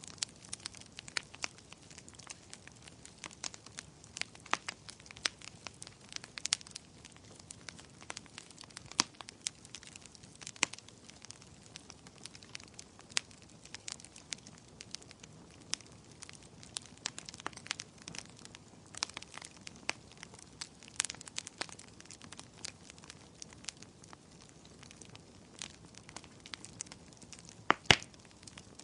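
Fire crackling in a fireplace: irregular sharp snaps and pops over a soft steady hiss, with one louder pop near the end.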